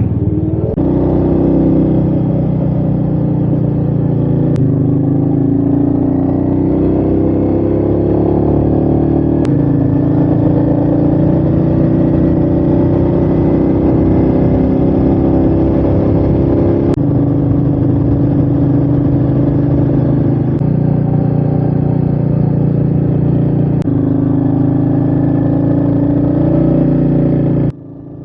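Royal Enfield Meteor 350's single-cylinder engine running under way, heard from the rider's position with wind rush. The engine note holds steady in stretches and shifts abruptly several times. It drops sharply in level near the end.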